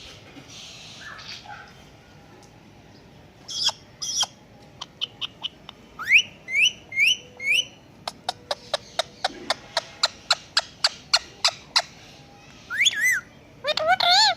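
Indian ringneck parrot calling: a few short calls, then four quick rising whistles, then a fast run of sharp clicks at about four a second, and wavering, warbling calls near the end.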